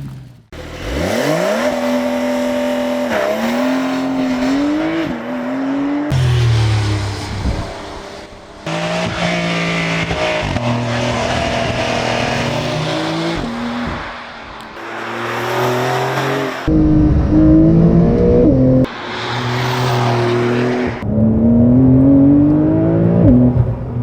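Supercar engine and exhaust accelerating hard, pitch climbing through each gear and dropping at quick upshifts. It comes as a string of short shots with sudden cuts between them.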